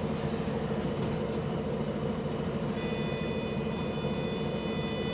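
City bus's diesel engine running with a steady drone, heard from on board; the bus has an exhaust leak. About three seconds in, a set of steady high-pitched tones joins the drone.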